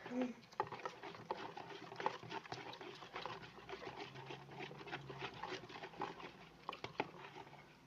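Sticky homemade slime of clear glue and borax water, only partly set, being stirred and worked: a string of irregular wet squelches and clicks.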